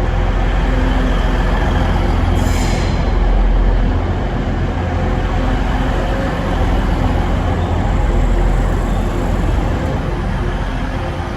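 A train running at a station platform: a steady, loud low rumble with a faint engine-like hum, and a short hiss about two and a half seconds in.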